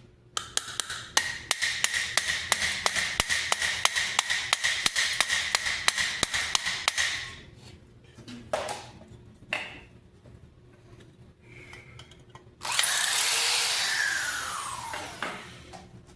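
A power tool runs for about seven seconds with a steady whine and regular ticking. After a few knocks, a louder rushing burst starts suddenly and fades over about three seconds, its pitch sliding down.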